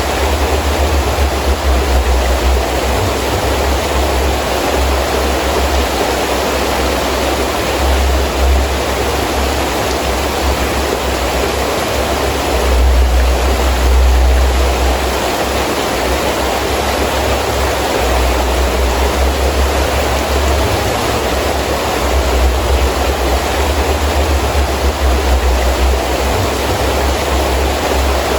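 Heavy rain falling steadily with wind, a dense even hiss. A deep low rumble, like gusts, swells and fades several times and is strongest about halfway through.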